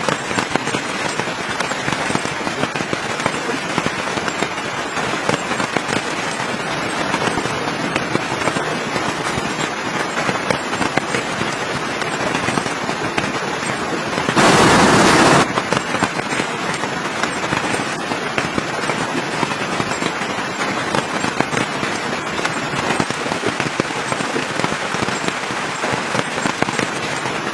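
Campfire crackling and popping steadily, with a dense run of small snaps. About halfway through, a loud burst of noise lasts about a second.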